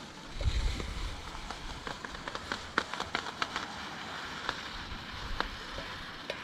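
Wood campfire crackling, with many small irregular pops and snaps over a steady hiss. A brief low rumble about half a second in.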